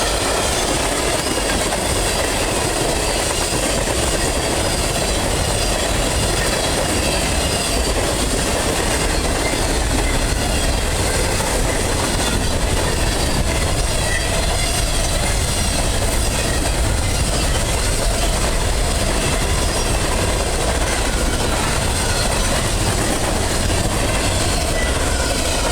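Norfolk Southern freight train cars rolling past steadily, with the continuous noise of steel wheels on the rails.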